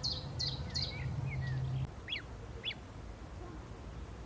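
Birds calling: a run of short repeated high calls, about three a second, then a few falling notes and two sharp single calls. A low steady hum under the calls stops about two seconds in.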